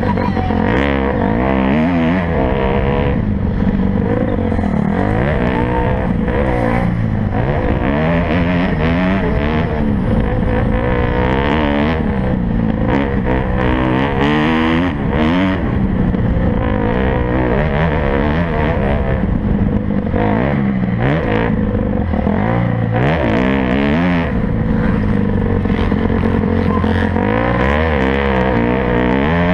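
Motocross dirt bike engines racing, the pitch climbing and dropping over and over with throttle and gear changes, several engines overlapping.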